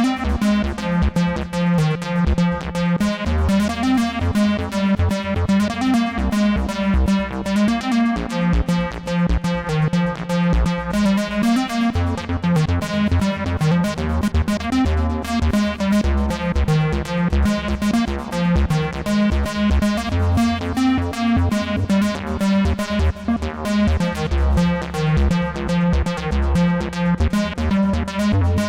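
Moog Messenger analog monophonic synthesizer playing a fast, repeating sequence of notes over a pulsing bass line, running steadily throughout.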